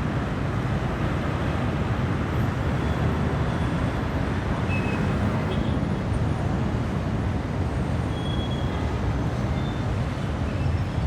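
Dense city traffic: a steady rumble of many car and bus engines and rolling tyres, with a few faint, brief high-pitched tones here and there.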